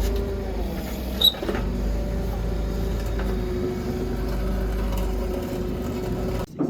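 Steady mechanical hum over a low rumble, with one sharp click about a second in; it cuts off abruptly near the end.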